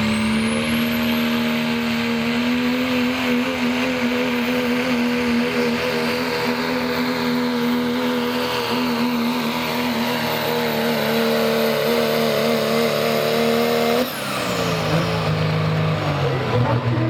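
Pro stock diesel Dodge pickup truck's engine held at full throttle pulling the sled, with a high turbocharger whistle that climbs in the first two seconds and then holds steady. About fourteen seconds in the throttle is cut at the end of the run, and the engine and turbo whistle wind down together.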